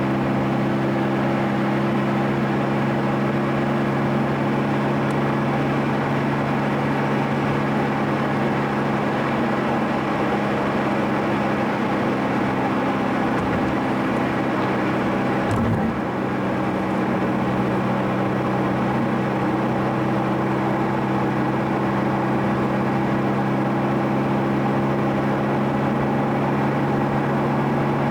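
A car engine drones steadily at an even speed, with a brief dip about halfway through before it settles again at a slightly different pitch.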